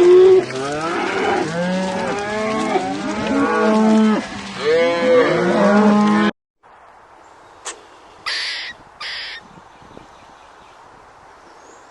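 Cattle mooing, many overlapping calls from a herd at once, cutting off abruptly about six seconds in. A quieter stretch follows with two or three short, harsh calls.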